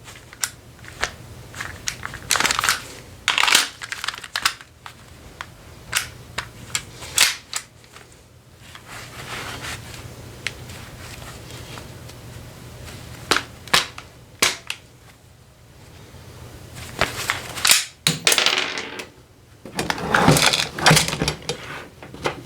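Airsoft gun being reloaded by hand: a series of sharp plastic and metal clicks and rattles from its parts, with denser rattling about a tenth of the way in and again near the end.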